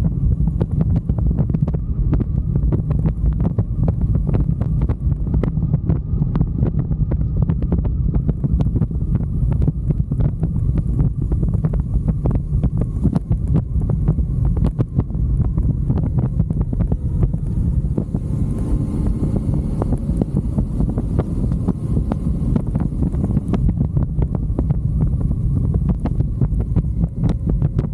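Wind buffeting the microphone on a moving motorcycle, a steady low rumble with the bike's road and engine noise beneath it.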